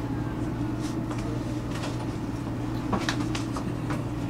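Inside a commuter train: a steady low hum from the train's equipment, with several sharp clicks and knocks starting about three seconds in.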